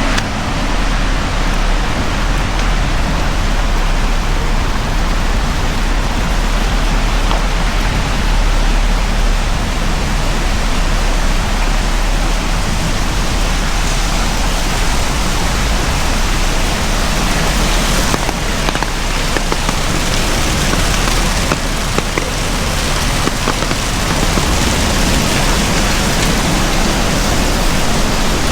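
Heavy rain falling steadily, a dense even hiss with a low rumble underneath and faint drop ticks.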